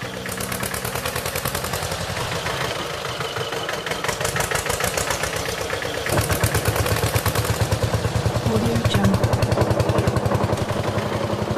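Tractor engine running with a rapid, even chugging beat, growing louder and heavier about six seconds in.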